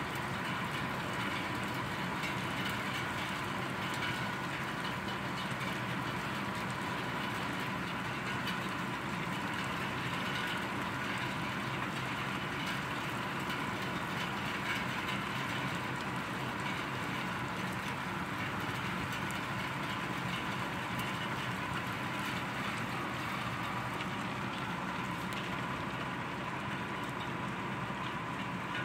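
Heavy thunderstorm rain falling steadily, a dense, even hiss with no thunder claps.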